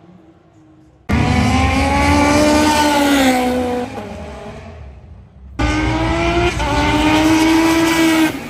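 Modified high-horsepower cars accelerating hard on a racing straight, in two clips cut together. About a second in, one engine note starts suddenly, rising and then falling as the car runs past. Past the middle another cuts in, dips briefly at a gear change and climbs again.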